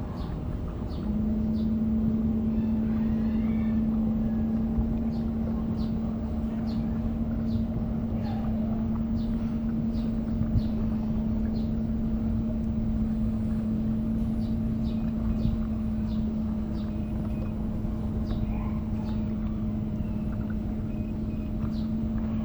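A steady motor hum holding one pitch comes on suddenly about a second in and runs on over a low rumble of wind and water.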